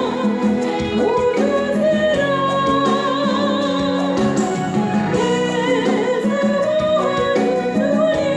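A solo singer performing a Christian praise song with vibrato, over a steady instrumental accompaniment.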